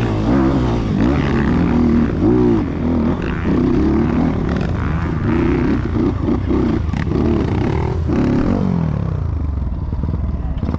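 Trail motorcycle engine revving, its pitch rising and falling again and again. Near the end it drops away to a low, steady rumble.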